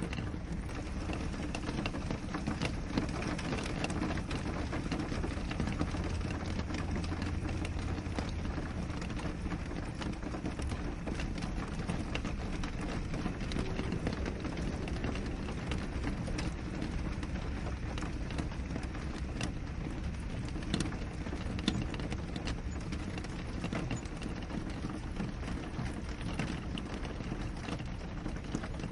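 Rain falling steadily on a window, with many scattered drop ticks over a continuous low rumble.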